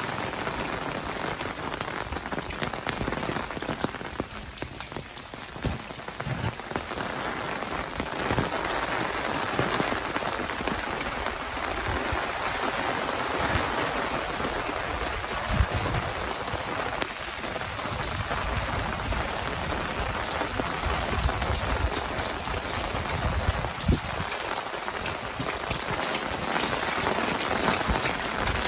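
Heavy rain falling steadily, with scattered sharp drop ticks over an even hiss.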